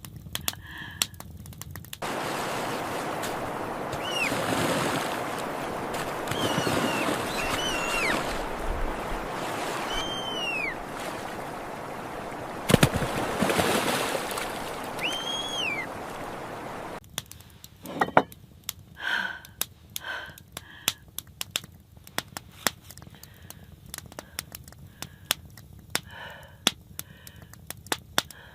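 Rushing water with a few short, chirping bird calls over it, and one sharp knock about halfway through. It stops abruptly at about seventeen seconds and gives way to quieter, sparse crackling and clicking.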